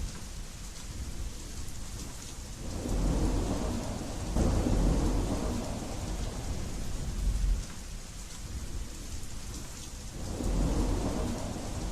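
Steady rain hiss with low rolling thunder that swells twice, about three seconds in and again near the end.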